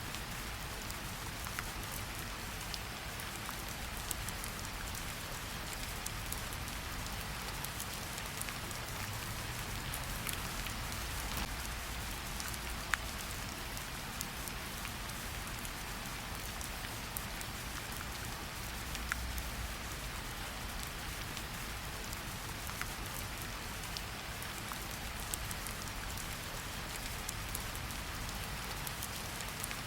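Steady rain falling in a forest, an even hiss with scattered individual drops ticking close by.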